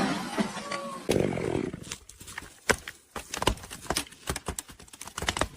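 Wood cracking and snapping during tree cutting: a brief rush of noise about a second in, then many irregular sharp cracks and snaps.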